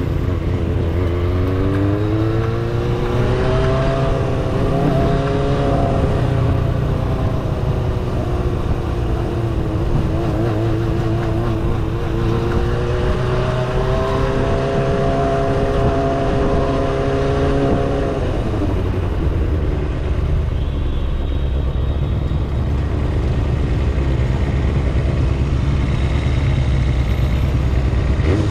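Kawasaki ZXR250 inline-four engine under way, its pitch climbing as it accelerates, sagging about ten seconds in, then rising again and holding. About two-thirds of the way through the engine note falls away, leaving a steady low rumble.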